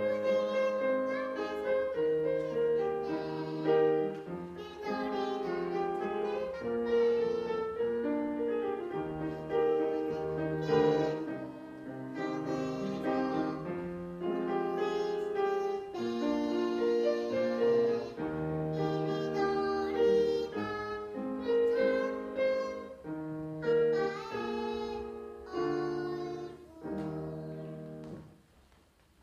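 A young child singing a Korean children's song to piano accompaniment; the music ends about a second before the close.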